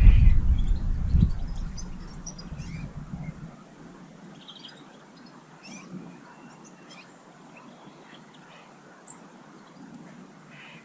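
Small garden birds chirping and twittering at feeders, in short scattered calls. A loud low rumble with a few knocks dominates the first few seconds, then fades out.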